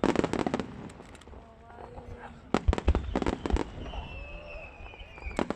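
Fireworks exploding overhead in salvos of rapid, crackling bangs: one string right at the start, another about two and a half seconds in, and a third beginning near the end.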